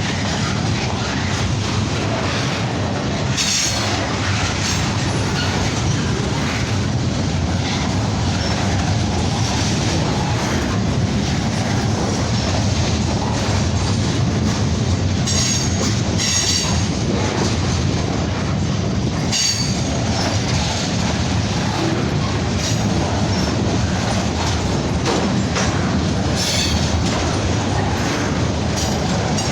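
Loaded freight cars of a CN train rolling past steadily, wheels clicking over the rail joints. A few short, high-pitched wheel squeals cut through several times.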